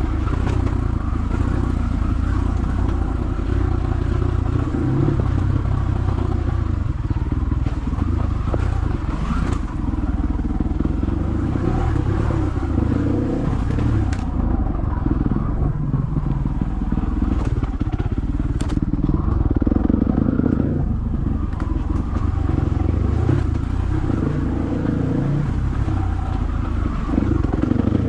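Dirt bike engine running as it rides a trail, the revs rising and falling with the throttle, with a few sharp clicks of debris striking the bike.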